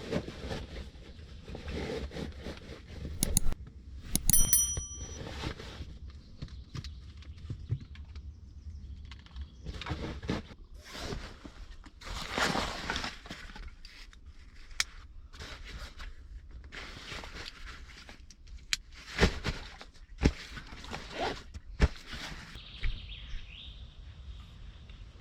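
Things being handled by hand: rustling with scattered clicks and knocks, and a metallic clink that rings briefly about four seconds in.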